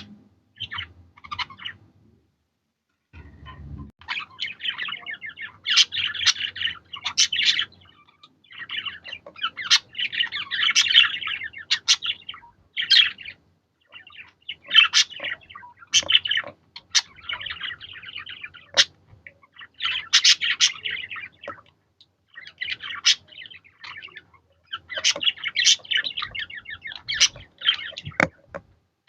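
Budgerigars chattering and warbling in bouts of rapid, overlapping chirps, with short pauses between bouts and a brief lull about two seconds in.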